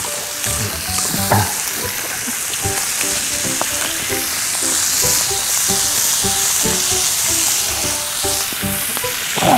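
Pork belly sizzling steadily on a hot stone griddle.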